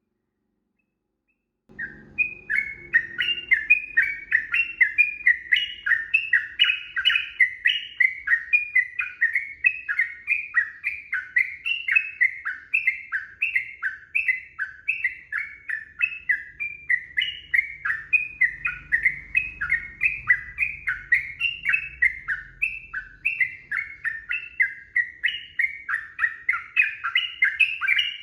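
Yellow-vented bulbul (trucukan) singing a long, rapid, unbroken run of quick repeated chattering notes. It starts suddenly about two seconds in, after silence.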